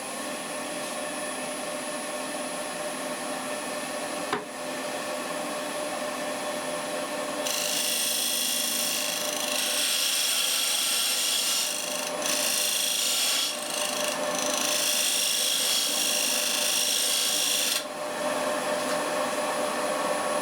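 An electric woodworking machine running with a steady hum and high whine. About seven seconds in, a wooden piece is pressed against it and a loud rasping hiss takes over for about ten seconds, broken twice briefly, as wood is taken off the part. There is a single knock a few seconds in.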